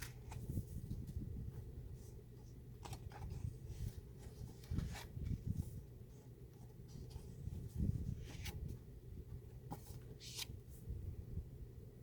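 Paper cards being handled and leafed through: scattered soft rustles and light taps of paper, over low bumps of handling.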